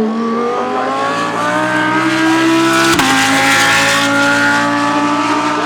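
GT3 race car engine accelerating hard, pitch climbing, with a single sharp upshift about three seconds in, then pulling on through the next gear.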